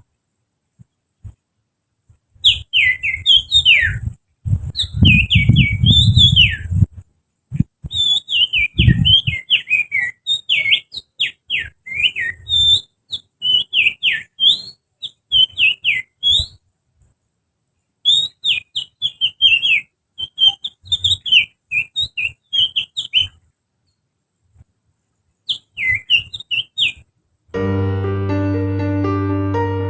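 Finger whistling by a person imitating the song of an oriental magpie-robin (kacer): quick runs of chirps and slurred up-and-down notes in phrases of a few seconds with short pauses, with a low rumble once or twice near the start. Piano music begins near the end.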